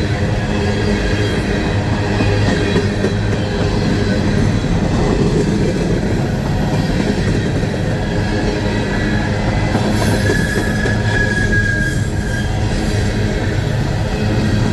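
Empty coal hopper cars of a long freight train rolling steadily past at about 20–25 mph on a curving uphill line. A thin, high wheel squeal rises out of the running noise for about two seconds, roughly ten seconds in.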